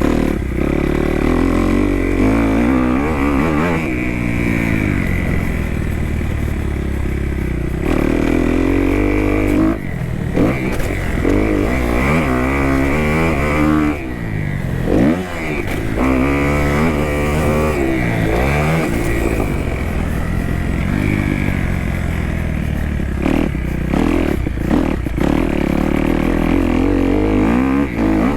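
2018 Kawasaki KX250F's single-cylinder four-stroke engine being ridden hard around a motocross track, its pitch climbing and falling over and over with throttle and gear changes. The throttle is briefly cut about ten seconds in and again about fourteen seconds in.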